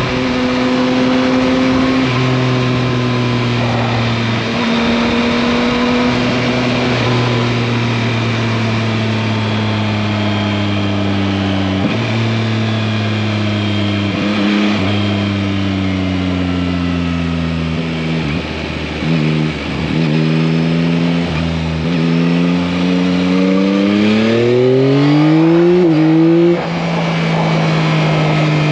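Yamaha MT-09's 890 cc inline-three engine running under way: holding steady revs with a few pitch jumps at gear changes, revs sinking slowly through the middle, then climbing for a few seconds under acceleration before dropping sharply at an upshift near the end.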